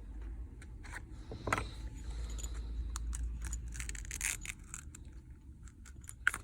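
Small hand tools clicking and scraping against an opened iPhone XR during disassembly, in scattered short taps with a scrape about one and a half seconds in and a sharp click near the end.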